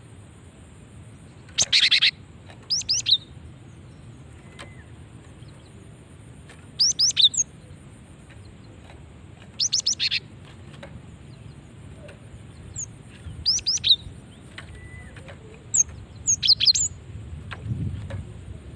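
Female cinereous tit (gelatik batu) calling: short chattering bursts of high, rapid notes, repeated every one to three seconds. This is the call a female gives to draw males. A low rumble comes in near the end.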